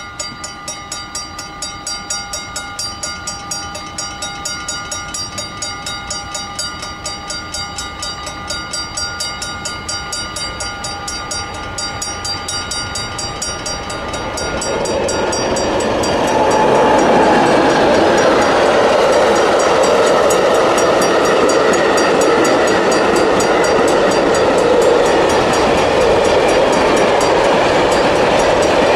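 Level crossing warning bell ringing about twice a second as a freight train approaches. From about fifteen seconds in, the intermodal freight train passes close by, a loud steady rumble of locomotive and container wagons on the rails that drowns out the bell.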